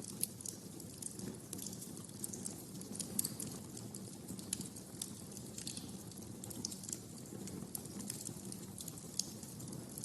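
Wood fire crackling in a fireplace: irregular sharp pops and snaps over a steady low rush of flames.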